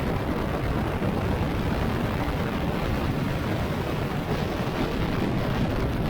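Steady wind rush over the microphone of an action camera riding along on a motorcycle at highway speed, covering the engine and road sound.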